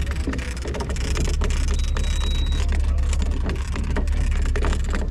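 A fishing boat's engine running with a steady low drone, with scattered clicks and knocks of gear on deck over it.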